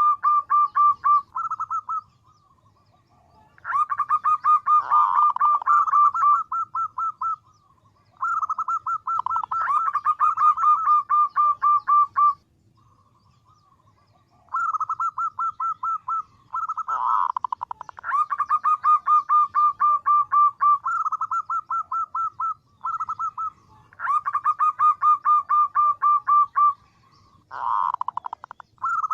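Female zebra dove (perkutut) calling to attract a male: rapid runs of short cooing notes, each run lasting a few seconds, repeated again and again after brief pauses.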